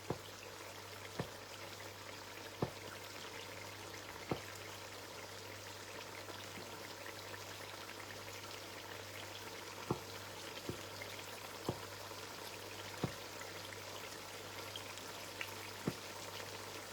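Food frying faintly in oil in a cooking pot: a steady quiet sizzle with scattered sharp pops, over a low steady hum.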